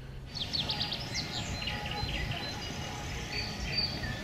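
Songbirds singing, a fast run of short high chirps starting a moment in, over a low steady rumble.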